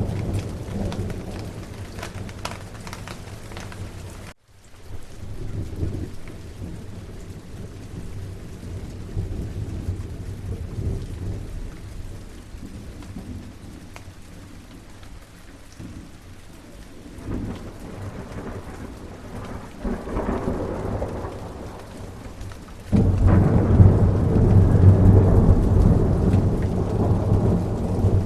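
Steady rain with rolling thunder: low rumbles swell and fade under the rain. The sound cuts out abruptly about four seconds in, and near the end it jumps suddenly to loud, heavy rumbling thunder.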